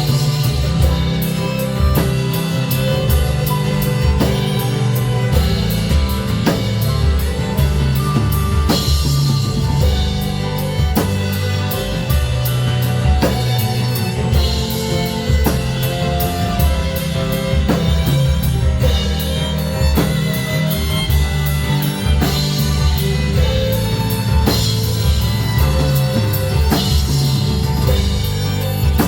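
Live pop-rock band music: drum kit keeping a steady beat over bass and guitar, playing throughout.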